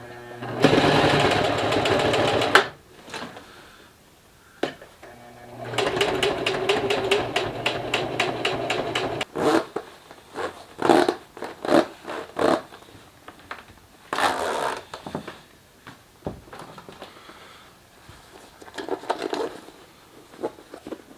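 Zipper on a vinyl boat-enclosure panel being pulled in several runs, each a fast train of tooth clicks: a run of about two seconds near the start, a longer one of about three seconds in the middle, then a few short tugs.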